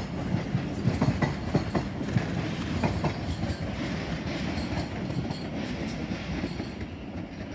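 A train moving slowly at a station platform, its wheels clattering over rail joints and points with a steady rumble underneath. The clatter is dense for the first few seconds and then thins out.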